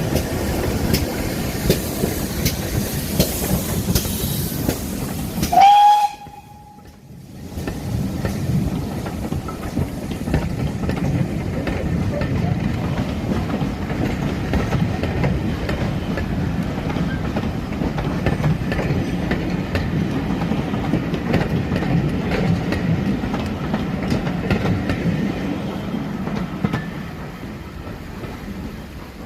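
A train running on the line, wheels clicking over rail joints, with one short loud whistle about six seconds in. The sound then drops away for about a second before a steady low rumble of the running train resumes and fades near the end.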